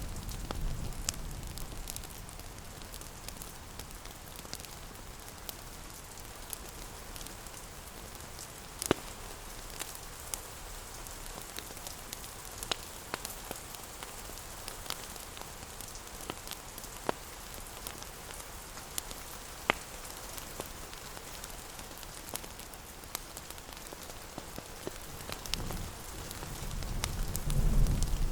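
Steady rain hiss mixed with the scattered sharp pops and crackles of a wood fire. A low rumble is present in the first couple of seconds and swells back up near the end.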